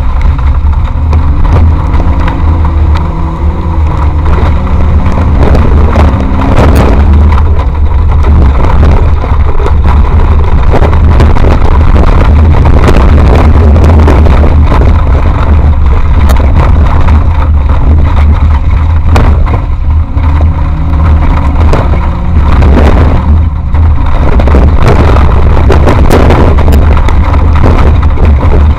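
Off-road race vehicle driving over rough ground, its engine rising and falling in pitch with the throttle under a heavy, loud, distorted rumble. Occasional sharp knocks come through.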